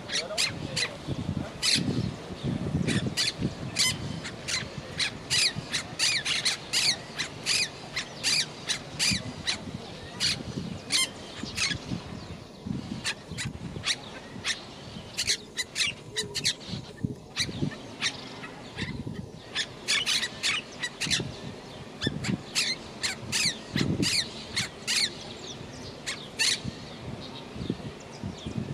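Monk parakeet giving a long run of short, sharp squawking calls, two or three a second, thinning out briefly midway.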